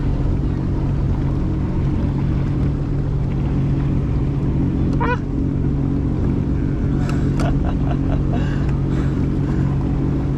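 Jet ski engine idling with a steady, even drone as the watercraft creeps away from the dock in gear.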